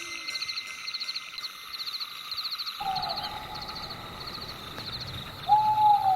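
Night-time forest ambience: a steady chorus of insects with rapid chirps repeating about twice a second. About halfway through, a low rushing layer comes in, and near the end there is a short, loud, falling hoot-like call.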